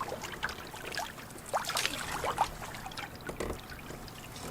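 Water trickling and dripping off a canoe paddle, with small splashes and plinks from the strokes.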